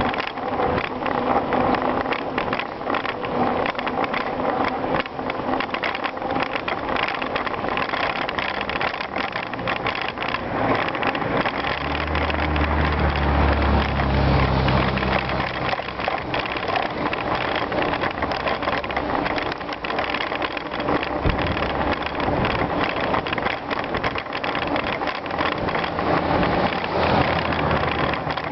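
Bicycle tyres rolling over gravel: a steady crunching and rattling with many small clicks. About twelve seconds in, a low rumble rises under it for a few seconds.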